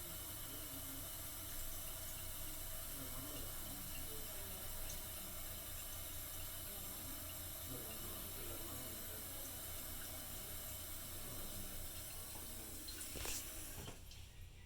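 2008 Kohler Kelston toilet tank refilling, water running steadily through the fill valve, which shuts off near the end.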